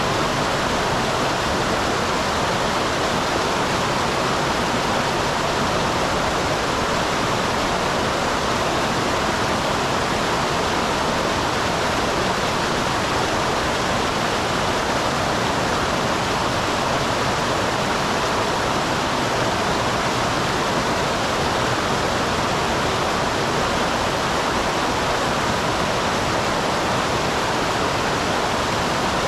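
Mountain stream pouring over a small waterfall: a steady, even rush of falling and flowing water.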